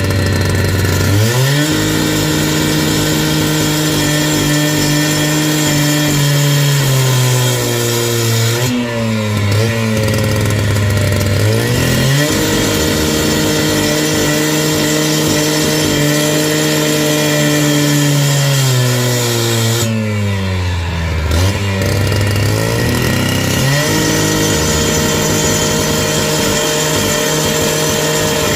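Small petrol engine of a power tool revved up and held at high speed for several seconds, then let drop back before revving up again, three times over.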